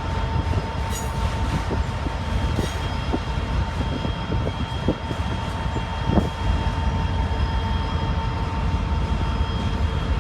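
Freight cars rolling past with a steady low rumble. A steady high squeal comes from the wheels on the rails, and scattered clicks sound as the wheels cross rail joints.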